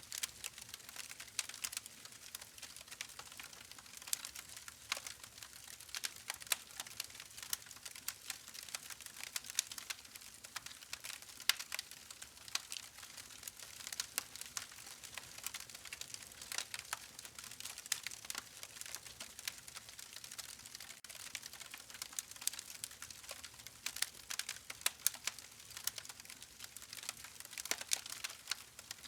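Wood fire crackling: a dense, irregular run of sharp pops and snaps over a faint steady hiss.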